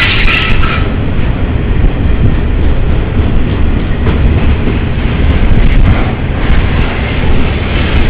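Long container freight train passing close by: the wagons' wheels running loud and steady on the rails.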